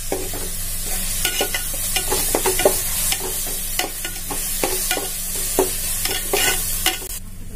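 Onion, tomato and herbs sizzling in hot oil in a metal pot while being sautéed with a perforated metal ladle, the ladle scraping and knocking against the pot in irregular strokes. The sizzle cuts off abruptly near the end.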